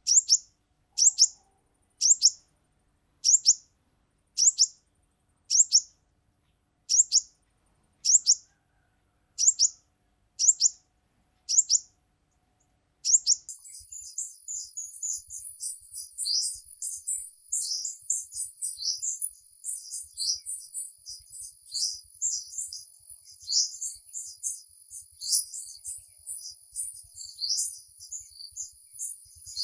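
Small songbird giving a high, sharp chirp about once a second, a dozen times over. About 13 seconds in, this gives way to continuous high twittering.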